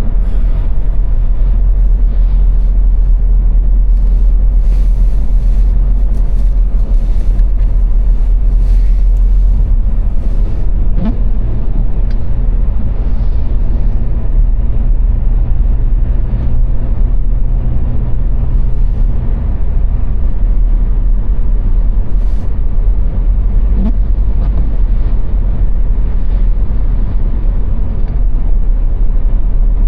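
Car cruising on a motorway: a loud, steady low rumble of road and engine noise.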